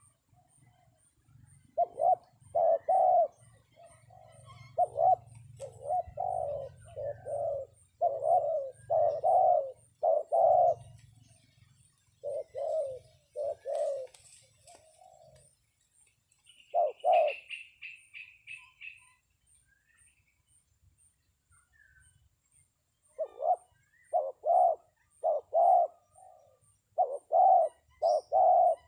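Spotted dove (terkukur) cooing in repeated phrases of short notes, pausing for a few seconds near the middle and then starting again: the decoy call used to lure wild doves down to the trap. A small bird briefly twitters over it around the middle, and an insect ticks faintly and regularly, high-pitched.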